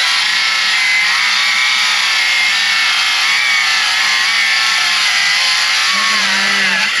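Milwaukee M12 cordless circular saw ripping a board lengthwise, the motor running steadily under load with its pitch wavering slightly, then stopping abruptly at the very end.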